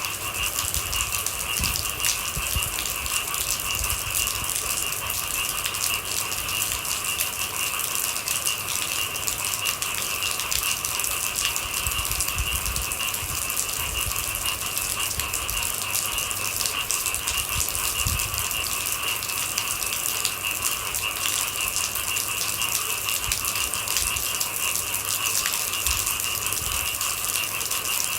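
Steady rain falling in a dense patter of drops. Behind it runs an unbroken high-pitched chorus of night animals.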